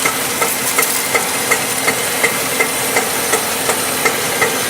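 Rhythmic knocking, just under three knocks a second, from the driveline of a Honda CR-V RD1 turning in Drive with the front wheels off, over the steady running of the engine. The knock keeps time with wheel rotation; the owner took it for the inner CV joint of the shaft leaving the gearbox, but it was later traced to the automatic transaxle's differential.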